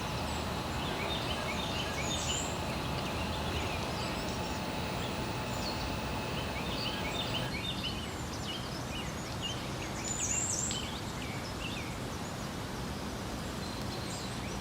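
Small birds chirping with many short, repeated calls over a steady outdoor rush of background noise.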